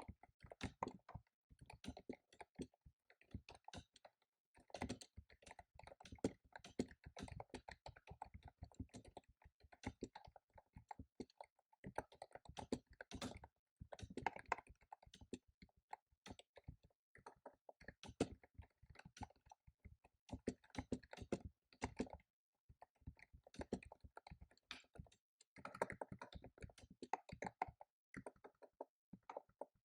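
Typing on a computer keyboard: runs of rapid keystrokes broken by short pauses of about a second, with sparser key presses a little past the middle.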